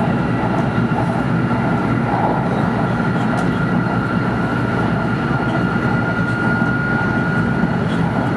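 Steady running noise of an N700 series Shinkansen at speed, heard inside the passenger cabin: an even rushing roar with a thin steady whine over it.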